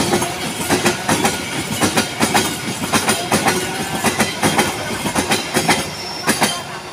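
Train wagons rolling past, their wheels clattering over the rail joints in quick pairs of clacks over a steady rumble. The clatter drops away near the end as the train moves off.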